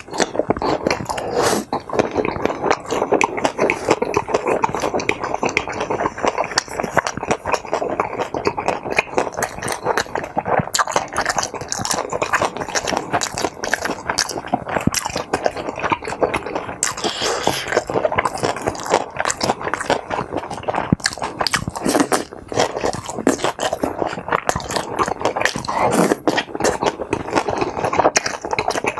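Close-miked chewing and wet mouth sounds of someone eating, a continuous dense run of small smacks and clicks.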